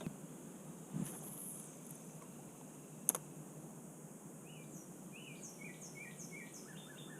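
Faint outdoor ambience with a bird calling a series of short, quickly repeated chirps that begin about halfway through and speed up near the end. Two faint clicks come earlier.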